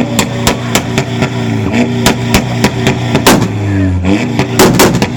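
Volkswagen Passat revved hard through a loud aftermarket exhaust, with sharp pops and backfire bangs from the tailpipe several times a second over the engine note. The engine note climbs and falls about three and a half seconds in.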